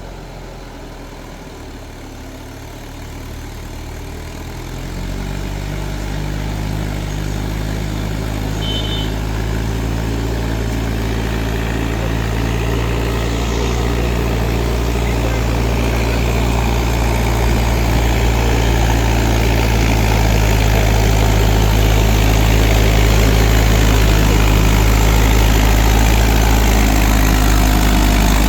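Mahindra 4WD tractor's direct-injection diesel engine running steadily, growing louder from about five seconds in and on through the rest.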